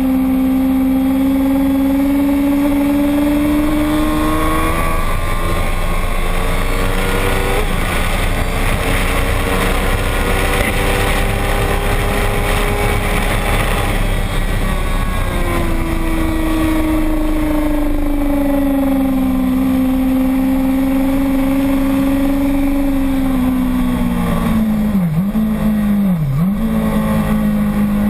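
Motorcycle engine running hard at high revs. Its pitch climbs slightly, is buried under a rush of wind noise in the middle, then returns strong and slowly sinks, with two quick dips in pitch near the end.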